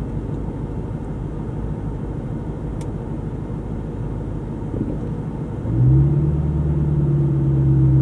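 BMW E90 M3 driving with a steady low road rumble. About six seconds in, the S65 V8's drone rises slightly and holds a louder, steady note as the car pulls.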